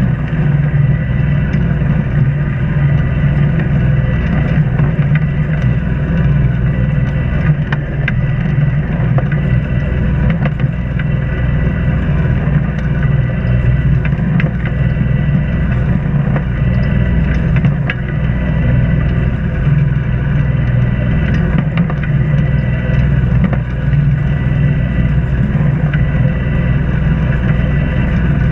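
An Islander 36 sailboat's inboard engine running steadily while the boat motors, a constant low drone with a faint steady whine above it.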